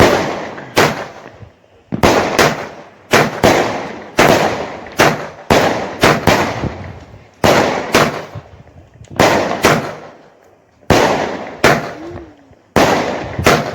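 Firework cake (multi-shot barrage) firing a long run of sharp bangs, often in close pairs, about one or two a second, each trailed by an echo.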